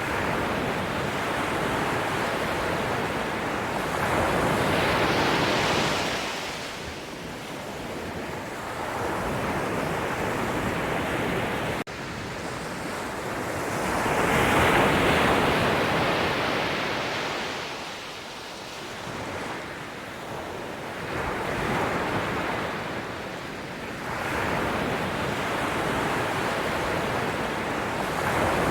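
Sea waves breaking and washing ashore in slow surges that swell and ebb every several seconds, the loudest about fifteen seconds in.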